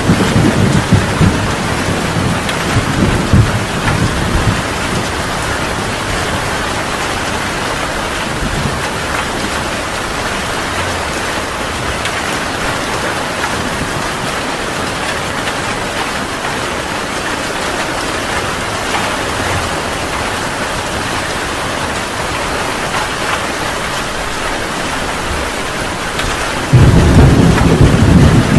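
Heavy rain falling steadily through a thunderstorm. Thunder rumbles at the start and dies away after about four seconds. Near the end a loud rumble of thunder breaks in suddenly.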